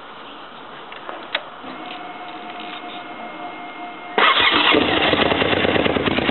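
Suzuki TL1000S V-twin engine with BOS aftermarket end silencers starting up. After a few quiet seconds with a faint steady whine, the engine fires about four seconds in and runs loudly with a rapid, even exhaust beat.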